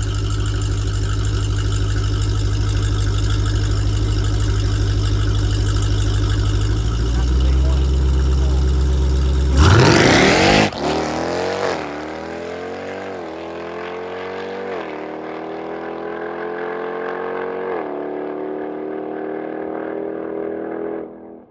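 High-powered drag car's V8 idling at the start line, building revs about seven seconds in, then launching hard with a loud burst just under ten seconds in. The engine note climbs and drops back through about four upshifts as the car pulls away down the strip and fades.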